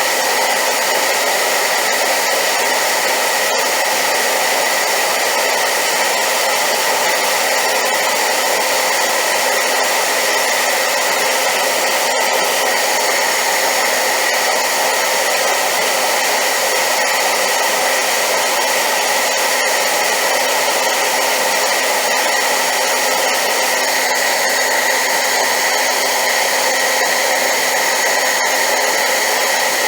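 Hair dryer running steadily on high power: a constant loud rushing hiss with a faint steady whine in it, used as white noise.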